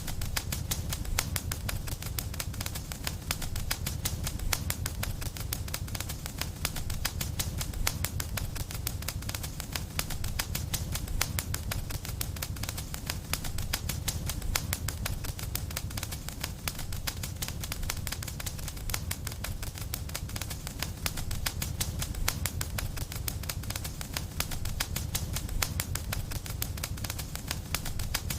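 Wood fire in a fireplace crackling steadily: dense, rapid pops and snaps over a low rumble of flames.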